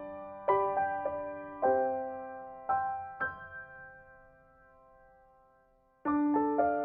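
Soft solo piano background music: a few notes struck and left to ring and fade, a pause of about two seconds, then a new phrase starting near the end.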